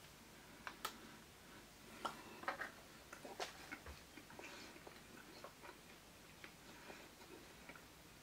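Faint, irregular mouth clicks of a person biting into and chewing a soft melon pan bun, busiest in the first half and sparser after.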